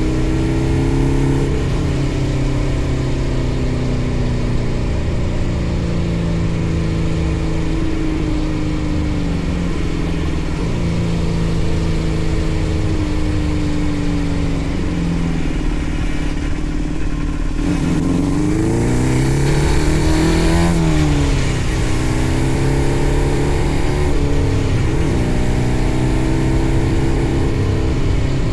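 The 600cc engine of a home-built Power Wheels go-kart running under throttle while driven, its pitch drifting up and down with a quick rise and fall in revs about two thirds of the way through. The builder says the engine is really not happy.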